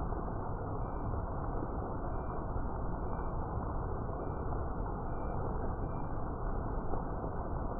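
Steady rain falling, an even muffled hiss with nothing high in it. Short high chirps repeat faintly about once a second above it.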